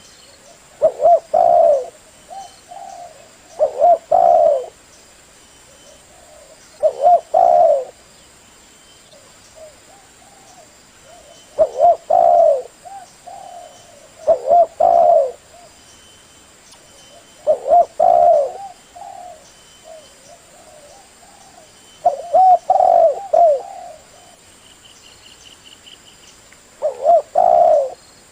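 Spotted dove cooing: a male's call of a few coos per phrase, repeated loudly about every three seconds.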